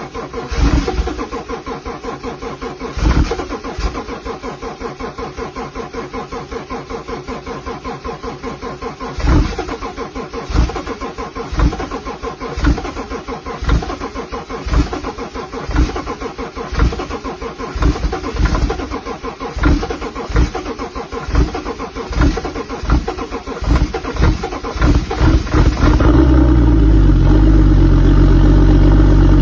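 A BMW engine being cold-started in severe frost: the starter cranks it for a long time with a fast, even pulsing and repeated surges where it tries to fire. About 26 s in it catches and runs on, louder and steady.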